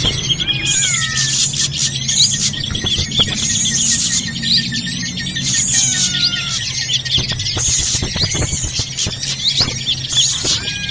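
Noisy chorus of small birds chirping and whistling all at once, many overlapping calls with sliding whistles and short high rasps: a bird-lure recording built around agitated drongo (srigunting) calls.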